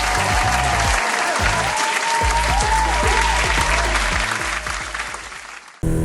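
Applause and cheering sound effect over music, with a few rising and falling whistles. It fades away and is cut off abruptly near the end, when the music alone carries on.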